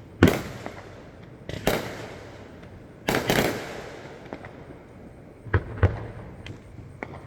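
Aerial firework shells bursting: a series of booms about one to two seconds apart, each dying away in a rolling echo. The sharpest comes just after the start, with a quick cluster of bursts about three seconds in and two more a little before six seconds.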